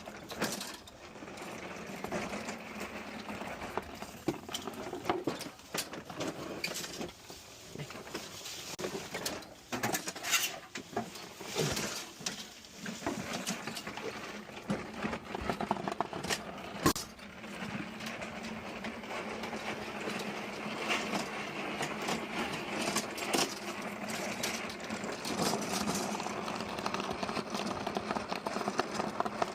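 Push lawn mower being wheeled over the ground, its wheels and deck rattling, with frequent sharp clicks and knocks. A steady low hum joins about two-thirds of the way through.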